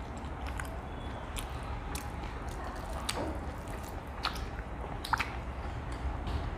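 Two people eating with their hands: wet chewing and lip smacks, with fingers working rice on a wooden plate. Scattered sharp smacks, the loudest about five seconds in.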